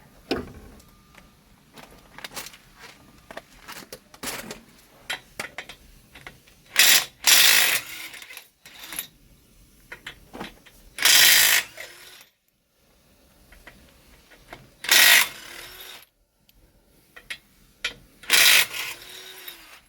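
A hand socket ratchet turning lug nuts on a pickup's front wheel, in several bursts of rapid ratchet clicking about a second long, with scattered clicks and knocks of the socket and tools between them.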